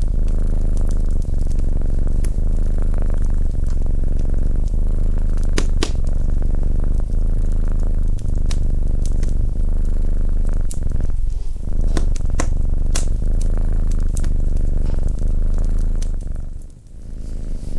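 Domestic cat purring steadily and close up, with scattered sharp pops and crackles from a wood fire. The purr drops out briefly near the end.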